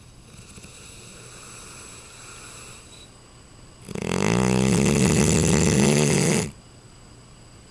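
Neapolitan Mastiff snoring in her sleep: soft breathing, then about four seconds in one loud snore lasting about two and a half seconds that cuts off sharply.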